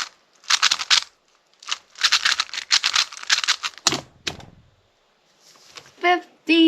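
Speedcube being turned quickly by hand: rapid plastic clicking and clacking in two runs, a short one and then a longer one of about two seconds, ending in a dull thump about four seconds in.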